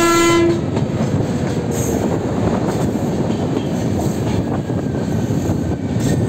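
Two passenger trains passing on adjacent tracks: a half-second horn blast from the oncoming WAP-5 electric locomotive at the start, then the steady rumble of its coaches' wheels running past on the rails.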